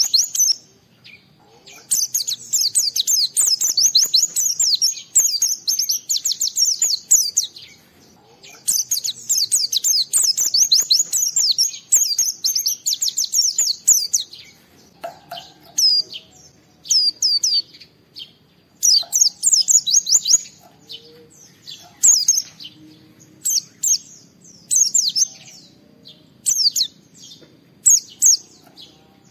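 White-eye (pleci) singing fast, high-pitched twittering phrases. The first half holds two long unbroken bouts of several seconds each; after that come shorter bursts separated by brief pauses.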